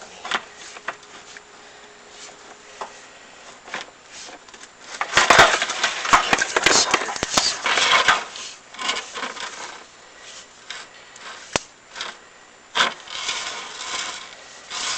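Chimney inspection camera rig scraping and rubbing against the flue walls as it is moved, with scattered clicks and knocks; a loud stretch of scraping about five seconds in and another near the end.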